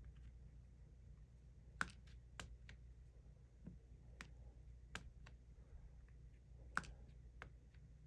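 Resin diamond-painting drills popping down onto the adhesive canvas under a drill pen: faint, sharp clicks at an irregular pace, roughly one or two a second.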